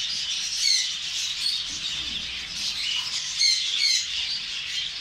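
Dense chorus of many caged pet birds chirping and chattering together. A few louder, sharper calls stand out about a second in and again around three and a half seconds.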